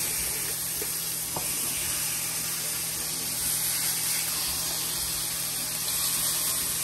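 Lamb chops sizzling in a hot stainless steel sauté pan with onions and mushrooms, a steady hiss as the seasoned meat is laid into the pan.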